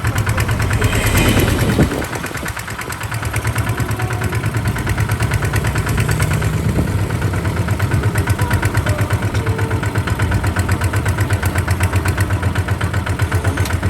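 Kubota RT140 DI single-cylinder diesel engine running with a rapid, even chug. It is louder and harsher for the first two seconds, then drops suddenly and runs on steadily.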